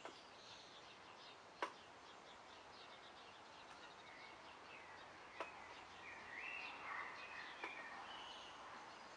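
Faint birdsong, whistled notes and short chirps, with a longer stepped phrase in the second half. Three sharp clicks cut through it, the loudest about one and a half seconds in.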